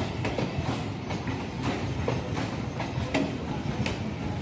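Electric multiple-unit suburban train rolling past close by: a steady rumble of the coaches with irregular sharp clicks and knocks from the wheels on the track.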